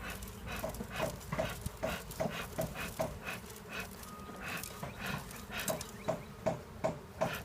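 Beekeeper's smoker bellows squeezed again and again, puffing smoke onto the bees in short breathy puffs, about two to three a second.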